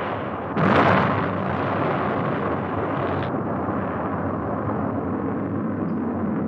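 Atlas rocket explosion: a sudden blast about half a second in, followed by a long, steady rushing noise of the blast and burning.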